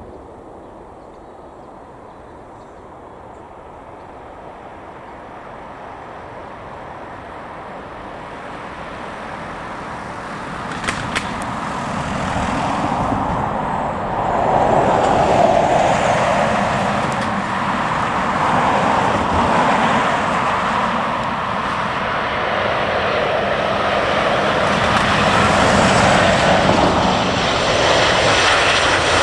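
Aircraft engine noise growing steadily louder as a plane draws near, loudest in the second half. Two brief clicks come about eleven seconds in.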